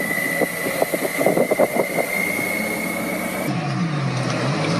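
A steady high-pitched tone runs under a quick series of knocks and rattles. About three and a half seconds in, it cuts to a car engine running, its pitch dipping and then rising.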